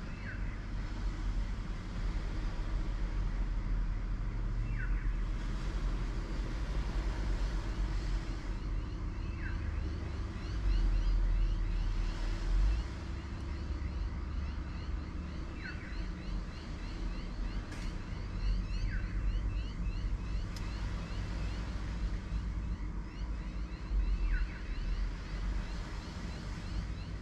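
Seaside ambience: a steady low rumble with a constant hum beneath it, and a short falling chirp every few seconds.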